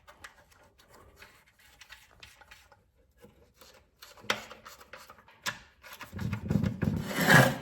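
Light clicks and scraping of metal parts being handled, getting louder in the second half with a sharp click and a rough rubbing noise near the end, as the fuel tank is set back on a Predator 212 engine and its bolts are put in.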